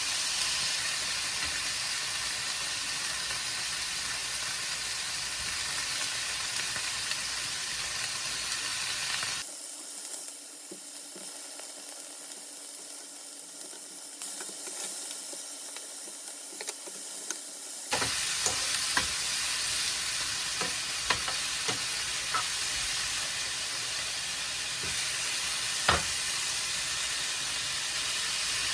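Food sizzling as it fries in a pan. About a third of the way in the sizzle drops to a quieter, thinner hiss for several seconds, then comes back louder with a utensil stirring and tapping against the pan.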